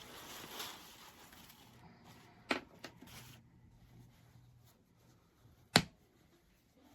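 Rustling from something being handled, then a few sharp clicks: two close together about two and a half seconds in, and a louder single click near six seconds.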